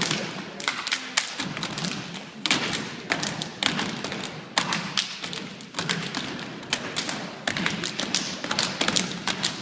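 Irregular thumps and taps, a few a second, over a steady background hiss.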